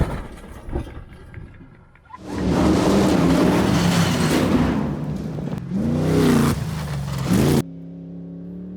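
Off-road race truck engine running hard at high revs under a loud rushing noise, its pitch dipping and climbing again about six seconds in. It cuts off suddenly near the end to a quieter, steady engine note.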